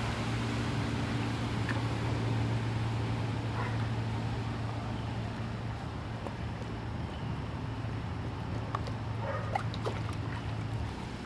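A motor vehicle's engine running steadily, a low hum over a constant wash of noise, its upper tones fading about halfway through.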